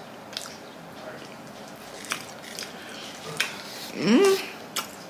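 Close-miked mouth sounds of a person chewing a soft Trinidadian chickpea double: scattered wet clicks and smacks. About four seconds in comes a short voiced 'mm' that rises in pitch, the loudest sound.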